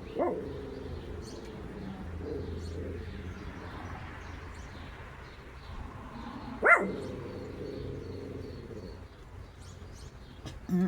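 Small birds chirping faintly now and then, and a dog letting out one short, sharp yip about two-thirds of the way through.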